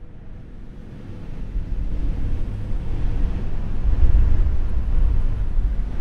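Wind buffeting the microphone outdoors, a gusty low rumble that fades in and grows louder.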